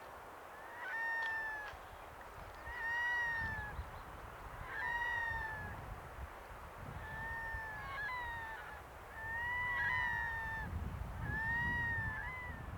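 A bird calling over and over: about seven drawn-out calls that rise and fall, one every couple of seconds.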